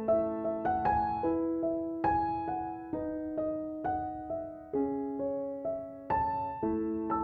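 Background piano music: a gentle melody of single struck notes over held chords, a new note roughly every half second.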